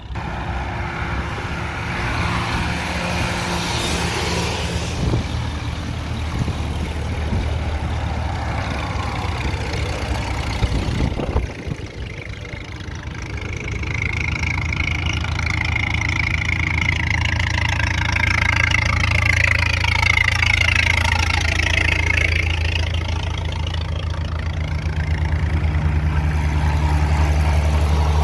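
Motor engines running steadily, with a sudden break about eleven seconds in. After the break the engine sound is heavier, and a higher whine rises and falls over it for several seconds.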